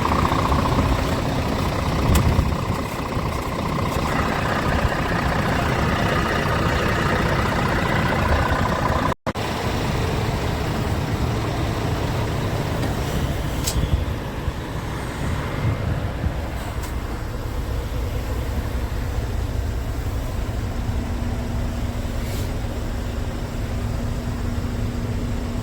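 Scania P410 truck's 13-litre six-cylinder diesel engine running steadily. The sound breaks off for an instant about nine seconds in and comes back lower and steadier, with a few faint ticks.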